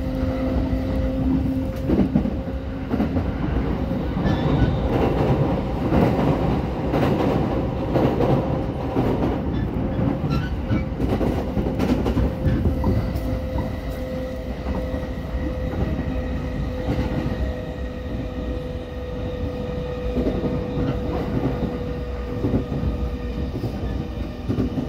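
Inside a JR Sobu Line local electric train running at speed: wheels rumbling on the rails with clicks over the rail joints, under a steady motor whine.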